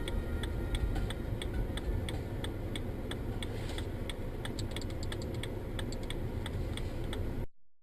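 Dash-cam recording from inside a moving car: steady low engine and road rumble, with a regular clicking about three times a second that grows busier after the middle. It cuts off suddenly near the end.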